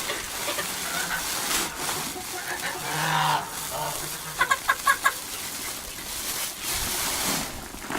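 Chickens clucking, with a quick run of about five sharp clucks a little past the middle.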